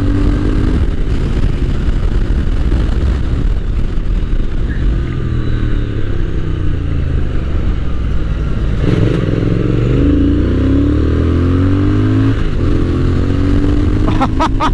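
Triumph Speed Twin 1200's parallel-twin engine running under way, with a steady rush of wind and road noise; the engine note climbs as the bike accelerates about nine seconds in.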